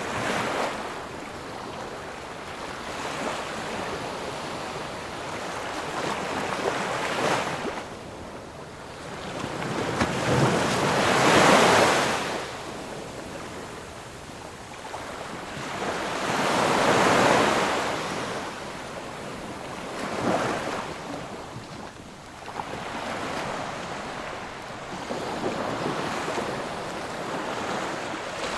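Ocean surf: waves breaking and washing in, the rush swelling and fading every few seconds, with the two largest waves about eleven and seventeen seconds in.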